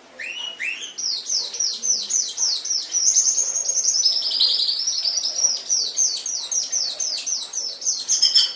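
Domestic canary singing: two lower rising notes, then a long rolling phrase of rapidly repeated downward-sweeping whistled notes, about five a second, whose pitch dips and climbs back midway.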